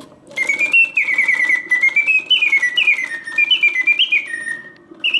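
Karl Griesbaum double singing birdcage automaton singing on its continuous setting: the bellows-driven bird whistle warbles and trills, stepping and sliding up and down between high notes. Underneath runs the clicking whirr of its clockwork mechanism. The song starts about half a second in, breaks off briefly near the end, then starts again.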